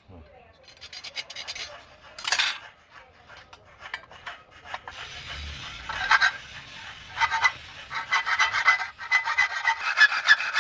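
Saw cutting with quick rasping back-and-forth strokes, a loud burst about two seconds in, and faster, louder strokes from about six seconds on.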